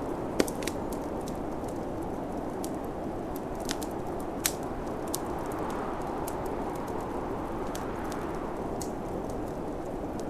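Wood fire in a fireplace crackling with scattered sharp pops, the loudest about half a second in and another about four and a half seconds in, over the steady rushing noise of a snowstorm wind.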